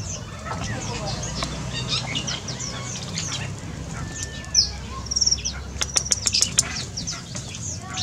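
Many small aviary birds chirping, with quick downward-sweeping high notes throughout and a longer whistled note about four seconds in. A quick run of sharp clicks comes between about five and seven seconds in, over a low steady hum.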